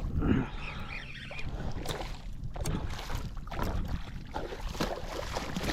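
Wind rumbling on the microphone aboard a fishing kayak, with scattered light knocks.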